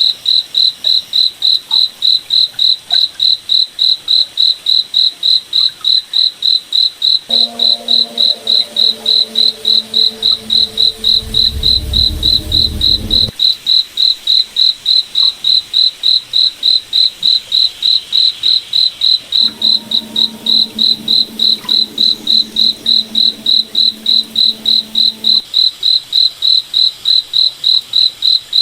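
Crickets chirping in a steady high-pitched pulse, about three chirps a second. A faint lower hum comes in twice behind it, with a deeper rumble under the first.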